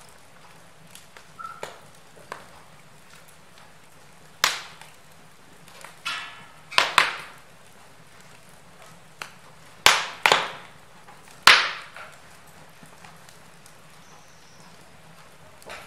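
Wood logs burning in a fireplace: a faint steady hiss broken by small crackles and about six loud, sharp pops bunched in the middle stretch.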